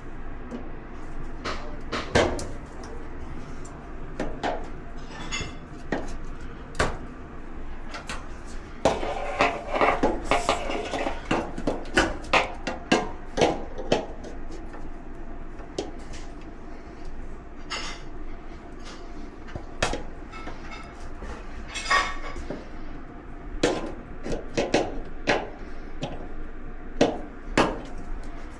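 Irregular clinks, clicks and knocks of hand tools and metal dryer parts being handled during repair work, busiest about a third of the way in.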